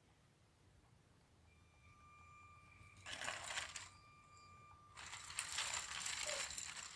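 Small electric motor of a motorized LEGO Technic tracked bulldozer whining faintly and steadily. Plastic gears and tracks rattle in two stretches, about three seconds in and again from five seconds on.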